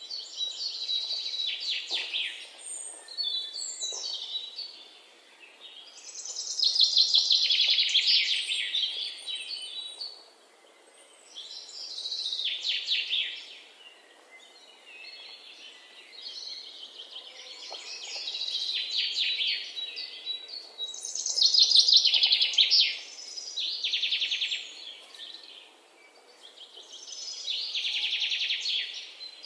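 Songbird singing: high, rapid trilled phrases of two or three seconds each, repeated every few seconds.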